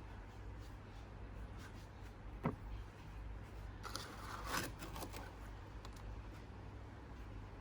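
A single sharp knock about two and a half seconds in, then a second or so of scraping and rustling, over a steady low hum.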